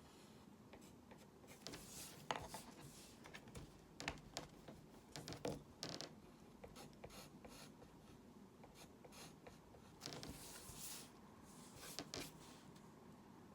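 Drawing strokes: a drawing tool scratching across a surface in short, faint, irregular strokes, with a longer run of strokes about ten seconds in.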